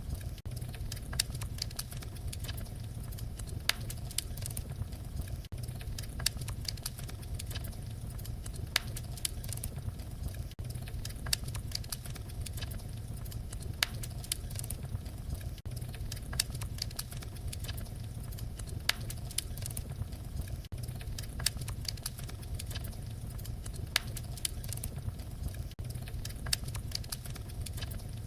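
Wood fire crackling, with frequent sharp snaps and pops over a steady low rumble of flames.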